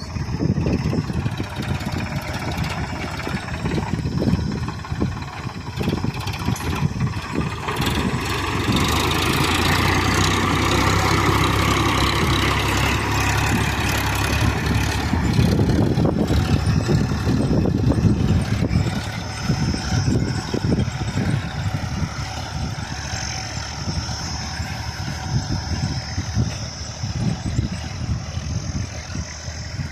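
Sonalika DI-740 III tractor's diesel engine working steadily while puddling with a two-bottom mouldboard plough, growing louder through the middle and easing again after.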